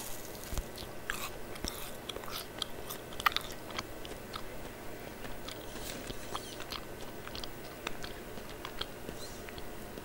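Close-miked chewing of marshmallows, with small irregular mouth clicks and one sharper click about three seconds in.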